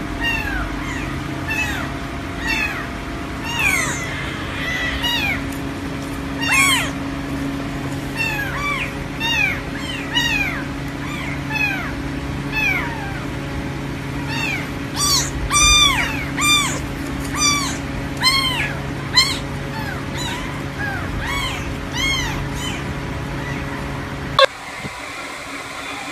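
A cat meowing over and over, short high calls that each rise and fall in pitch, about one or two a second and crowding together around the middle, over a steady low hum. The sound cuts off suddenly shortly before the end.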